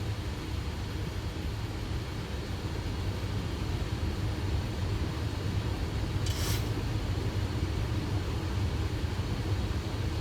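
Steady low rumble of airflow and engines heard inside a Boeing 737 cockpit on final approach, with a brief hiss about six seconds in.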